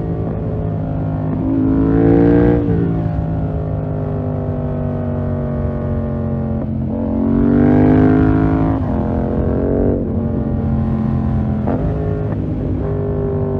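2020 Yamaha MT-07's parallel-twin engine through a full SC-Project 2-1 exhaust, ridden on the road. The revs climb twice under throttle, each time falling away slowly as the throttle closes. Near the end the note breaks briefly a few times.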